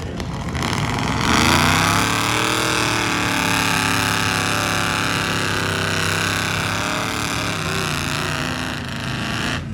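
Large off-road truck's engine revving up about a second in and held at high revs for several seconds, the pitch wavering slightly, then cut off abruptly.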